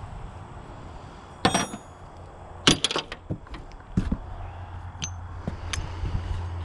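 Metal hand tools and parts clinking and knocking: a handful of separate sharp clinks, the first about one and a half seconds in with a brief metallic ring, then a quick cluster. A steady low hum starts about two-thirds of the way through.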